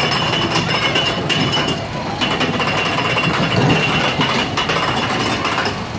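Small amusement-ride train running with a rattling mechanical clatter, under a steady high tone that breaks off briefly about a second and a half in and stops just before the end.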